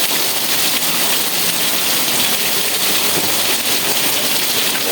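Steady rain falling, a dense even hiss with no pauses.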